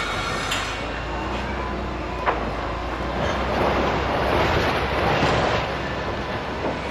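Construction-site noise: heavy machinery rumbling steadily, swelling for a couple of seconds around the middle, with one sharp knock about two seconds in.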